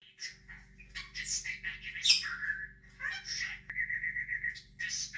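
Budgerigar chirping and warbling in quick, short notes, with a rapid trill about two-thirds of the way through.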